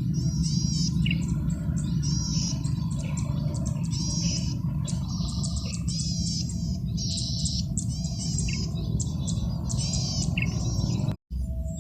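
Male golden-headed cisticola singing repeatedly: short, high, buzzy trilled phrases with sharp lower notes between them, over a steady low rumble. The recording drops out for a split second near the end.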